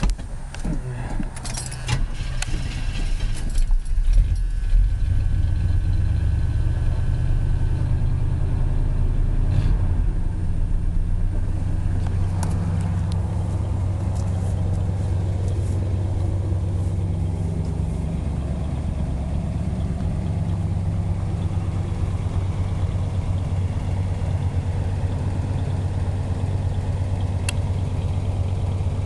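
A 1981 Chevy truck's 305 small-block V8 cranked and started a few seconds in, then idling steadily.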